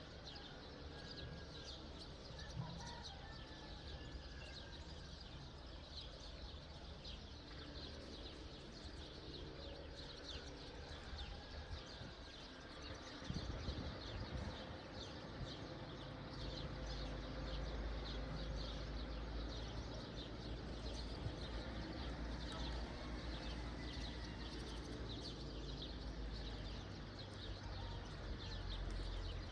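Morning outdoor ambience: many small birds chirping continuously, over a low rumble that gets louder about halfway through.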